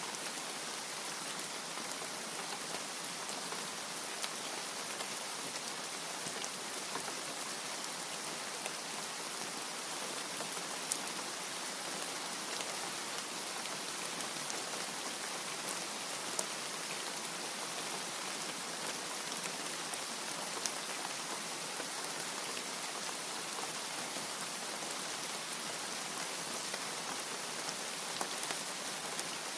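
Steady rain falling: an even hiss with a few sharper drop taps now and then.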